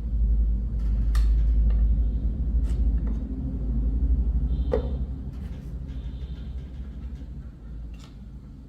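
A steady low mechanical rumble, loudest in the first half and slowly fading over the last few seconds, with scattered sharp clicks and knocks.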